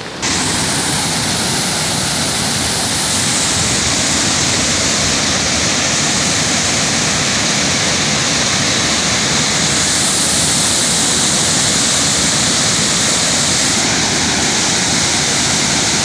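Waterfall: a loud, steady rush of falling water that starts abruptly just after the beginning.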